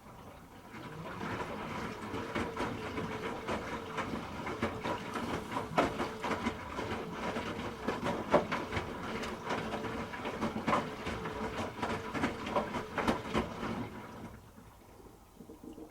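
Hoover H-Wash 300 Plus washing machine turning its drum during the rinse: a steady motor hum under an irregular clatter of the tumbling load. It starts about half a second in and stops about two seconds before the end.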